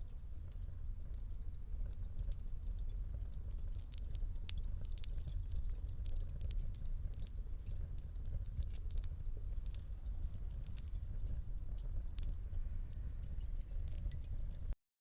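Wood fire burning in a fireplace: a steady low rumble of flames with many quick, irregular crackles and pops. The sound cuts out abruptly just before the end.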